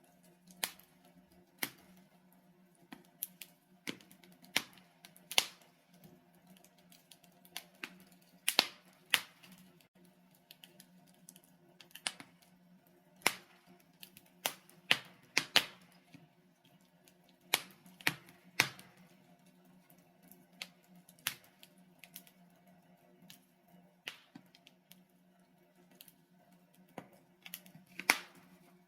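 Logs burning in a fireplace, crackling with irregular sharp pops and snaps, some close together and some seconds apart, over a faint steady low hum.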